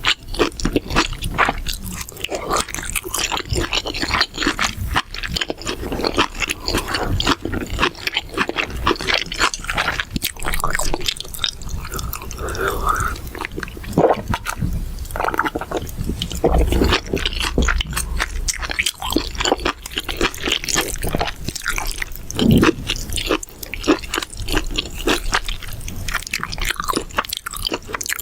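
Close-miked eating of mala xiang guo: a dense, irregular run of crunching and wet chewing sounds.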